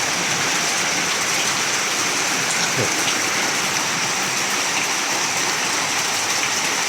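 Heavy rain falling steadily, an even, dense hiss of rain on surfaces.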